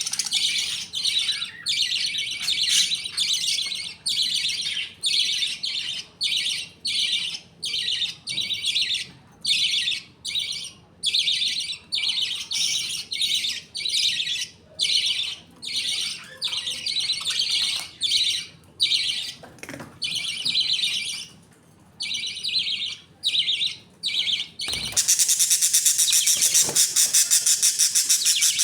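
Budgies chirping in a run of short, repeated bursts of high calls. About 25 seconds in this changes to a continuous, rapid, slightly louder chatter.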